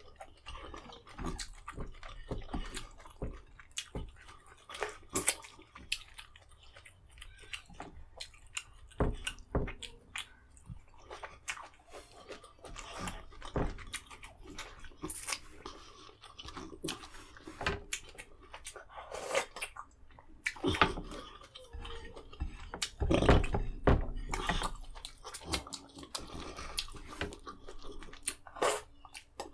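Close-miked eating sounds of a man chewing vegetable soup greens eaten with his fingers: an irregular run of short smacks and clicks, loudest a little past the middle.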